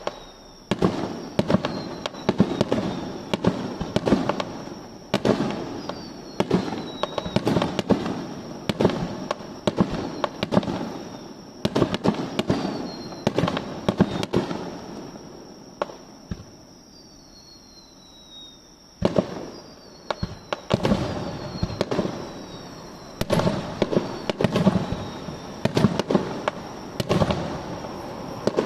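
Fireworks display: aerial shells bursting in quick succession, each bang trailing off, with faint thin whistles falling in pitch between them. The bursts pause for about three seconds two-thirds of the way in, then resume.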